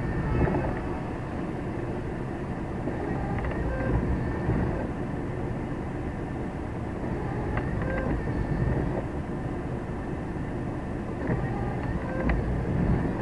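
Heavy truck's diesel engine and road noise heard from inside the cab, a steady low rumble with a few short clanks and rattles.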